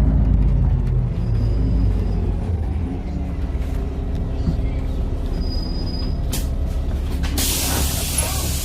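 LiAZ 5292 city bus slowing, its engine note falling over the first couple of seconds and then running low and steady. About seven seconds in, a loud hiss of compressed air sets in as the bus pulls up at a stop.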